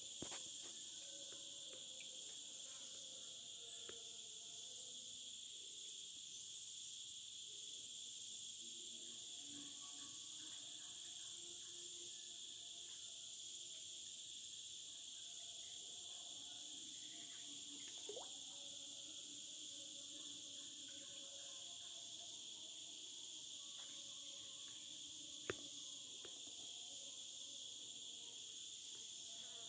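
Steady, high-pitched chorus of crickets and other insects, with faint scattered lower calls and a few short clicks, one sharp click about 25 seconds in.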